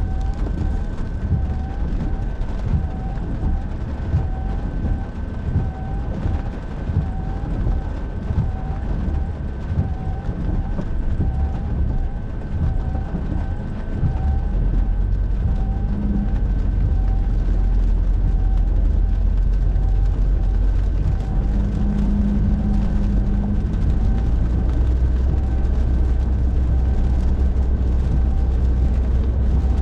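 A car driving through heavy rain, heard from inside: steady road and rain noise with a short chirp about every two-thirds of a second, the rhythm of windshield wipers on fast speed. About halfway through, the low rumble grows louder and steadier, and a faint steady high whine runs underneath.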